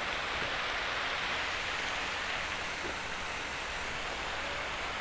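Steady, even rushing noise of running or falling water.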